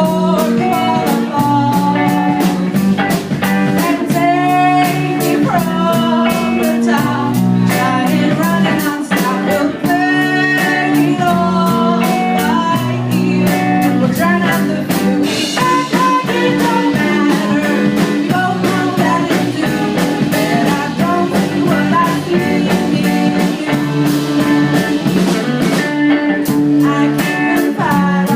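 Live band playing a blues-rock song with electric guitar and a steady drum beat on the cymbals, and a voice singing over it at times.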